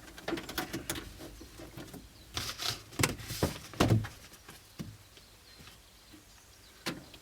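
Hand-handling noises from fitting a vent panel: a string of knocks, clicks and rustles, busiest between about two and four seconds in, then a single knock near the end.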